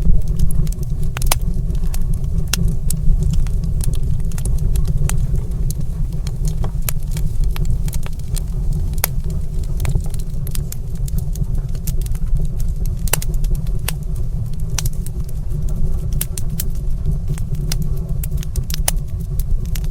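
Fireplace fire crackling, with frequent sharp irregular pops and snaps over a steady low rumble.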